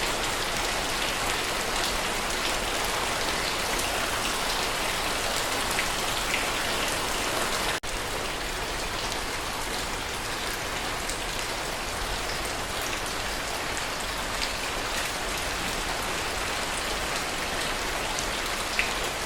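Steady rain, with scattered drops ticking out of the wash. It breaks off for an instant about eight seconds in.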